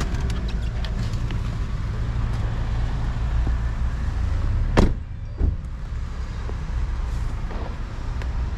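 Steady low rumble of a car engine, with a sharp loud thump almost five seconds in and a lighter knock just after it.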